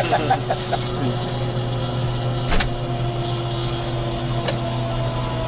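Helicopter engine and rotor running, heard from inside the cabin as a steady hum with steady tones. A sharp click about two and a half seconds in.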